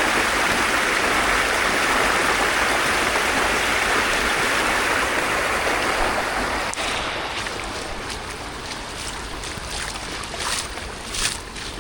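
Steady rush of water in the rain that drops away suddenly about seven seconds in, leaving a quieter hiss with a few short, sharp sounds near the end.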